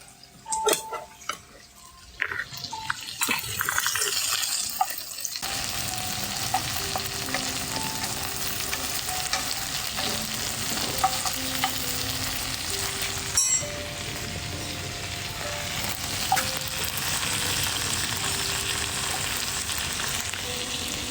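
A few knocks, then food sizzling loudly in a hot pan. The sizzle starts suddenly about five seconds in and keeps going steadily.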